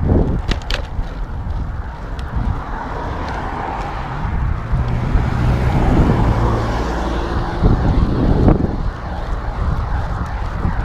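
A motor vehicle passing, its engine hum swelling to a peak about six seconds in and fading, over steady rumbling road and wind noise.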